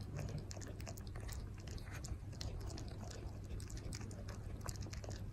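A pet chewing, heard as many small irregular clicks and crunches over a low steady hum.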